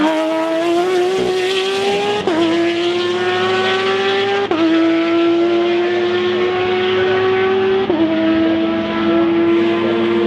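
Race car engine pulling hard through the gears, its pitch climbing steadily and dropping sharply at three upshifts, about two, four and a half, and eight seconds in.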